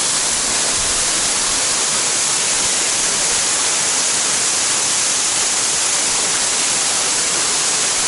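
Waterfall: a loud, steady hiss of falling water crashing into its plunge pool, even throughout with no changes.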